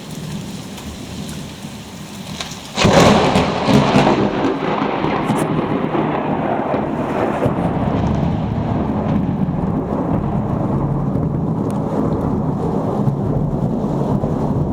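Summer thunderstorm: rain falling, then about three seconds in a sudden loud thunderclap that rolls on as a long, low rumble over the rain.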